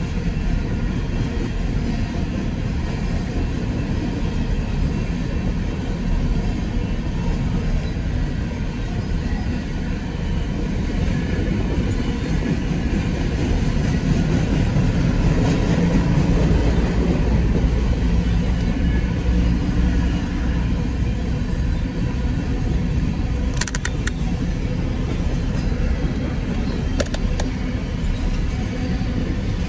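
Freight train of covered hopper cars rolling past: a steady rumble and clatter of steel wheels on the rails, heard from inside a car. A few sharp clicks come near the end.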